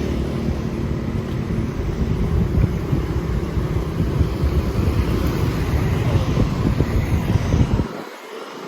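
Wind buffeting the microphone: an irregular low rumble that drops away suddenly near the end.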